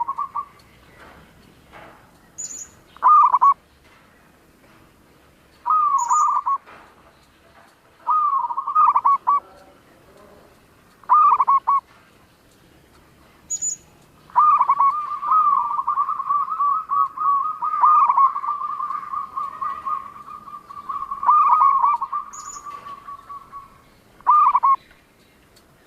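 Zebra dove (perkutut) cooing: short rolling, trilled phrases repeated every two to three seconds, then one long unbroken rolling coo lasting about nine seconds. Four brief high chirps from a small bird sound between the phrases.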